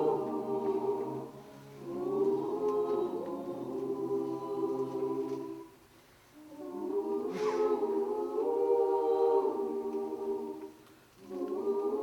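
Unaccompanied vocal ensemble singing a cappella in close harmony, holding long chords in phrases with short breaks between them.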